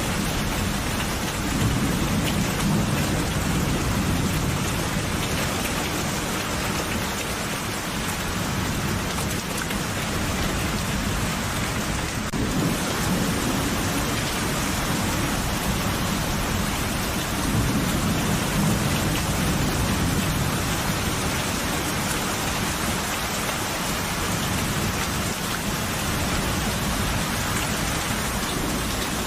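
Steady heavy rain falling, with low rolling thunder rumbling underneath and swelling a few times: about two seconds in, near the middle, and again about two-thirds of the way through.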